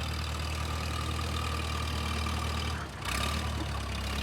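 Propane-fuelled tractor engine idling steadily. The sound dips briefly just before three seconds in, then carries on.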